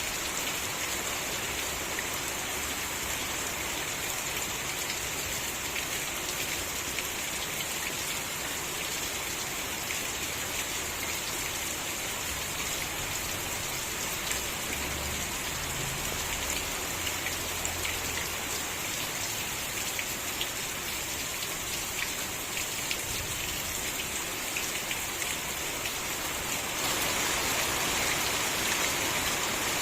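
Steady rain falling, an even hiss with many fine drop ticks, growing a little louder near the end.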